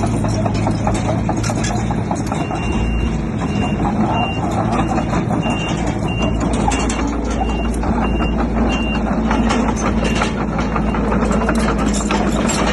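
Bulldozer diesel engine running under load, with clanking of steel tracks and rock throughout. A reversing alarm beeps steadily from a few seconds in until about two-thirds through.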